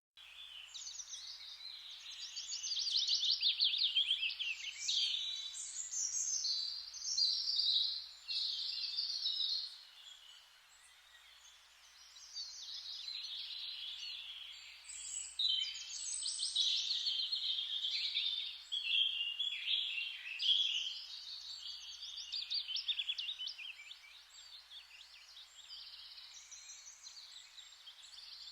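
Several songbirds singing at once in a dense dawn-chorus-like tangle of high, rapid trills and chirps over a faint steady hiss, with a brief lull about a third of the way in.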